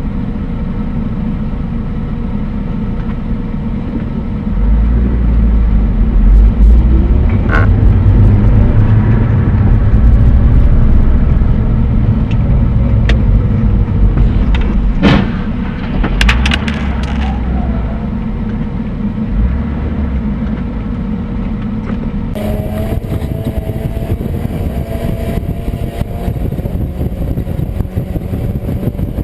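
Car driving, heard through a dashcam: steady road and engine rumble, heavier for a stretch in the middle. A sharp impact bang comes about halfway through, followed by a few clatters, typical of a collision.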